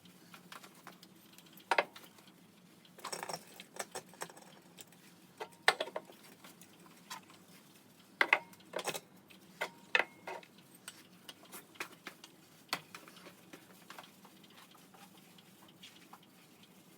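Irregular light clicks and taps of small objects being handled, over a faint steady hum.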